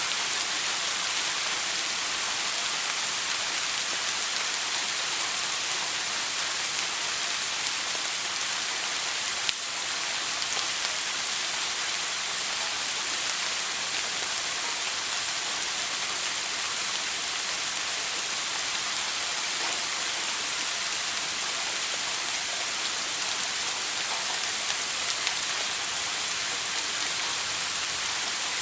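Shower running: a steady hiss of water spray falling, even throughout, with one brief click about a third of the way in.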